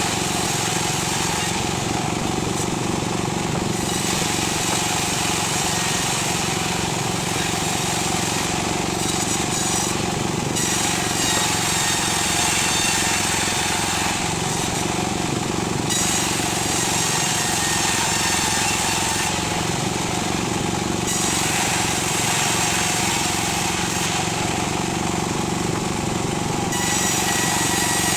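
Single-cylinder 'dompeng' diesel engine running steadily, driving a table circular saw. The saw blade's high ringing grows and fades every few seconds as it cuts lengths of sengon wood into rafters.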